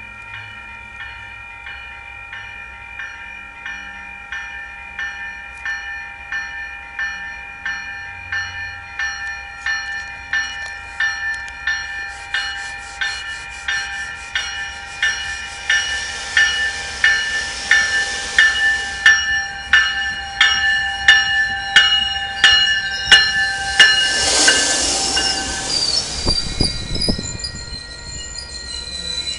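MBTA commuter train pulling into a station, its bell ringing about twice a second and growing louder as it approaches. The train arrives with a loud rush about three-quarters of the way in, then the coaches roll past with a low rumble and high wheel or brake squeal near the end.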